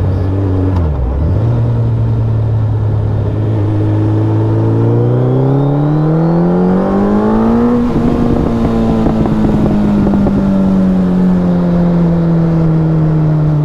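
Inline-four superbike engine under way: a quick dip in revs about a second in, a steady cruise, then a hard acceleration with the pitch rising for about three seconds. As the throttle closes the revs fall slowly on engine braking, with crackling exhaust backfire pops.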